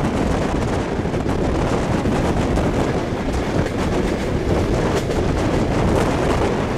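Wind rushing over the microphone held out of a moving passenger train's window, over the steady rumble of the carriages running on the rails, with faint clicks from the wheels.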